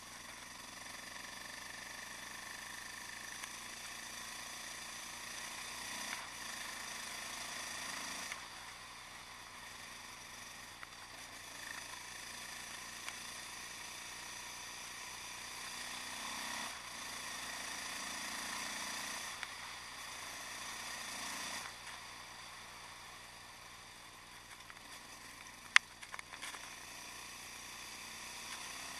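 Yamaha XT660X supermotard with a Mivv exhaust, its single-cylinder engine running while riding, the note changing with the throttle several times. One sharp click near the end.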